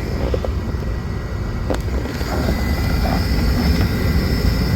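Rooftop HVAC unit running, a steady low rumble from its blower, with one sharp click just under two seconds in.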